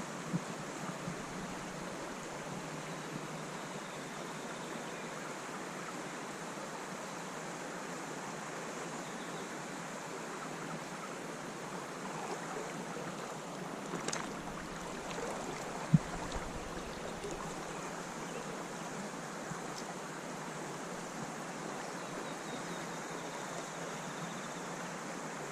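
Steady rush of a small creek's flowing water, with a single sharp knock about two-thirds of the way through.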